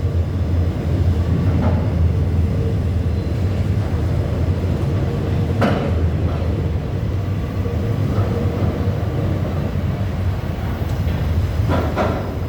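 Container freight train rolling past: a steady low rumble of wheels on rails, with a sharp clank about halfway through and a couple more clanks near the end.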